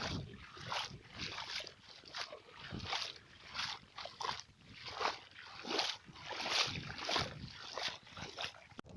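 Steady, rhythmic sloshing steps of someone wading through shallow pond water and mud, about one and a half steps a second.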